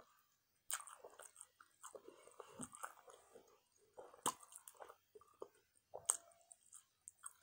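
Close-miked chewing of saucy barbecue rib tips: irregular wet smacks and sharp little clicks, starting about a second in.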